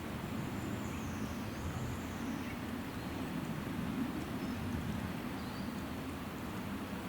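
Outdoor ambience: a steady low rumble with a few faint, high bird chirps, once in the first two seconds and again about five and a half seconds in.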